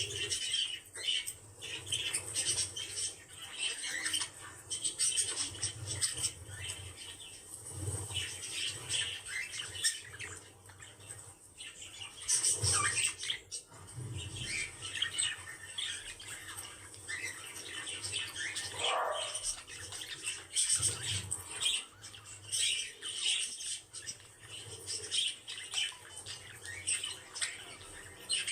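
Small pet birds chattering to each other, a continuous run of short squawks, chirps and clicks.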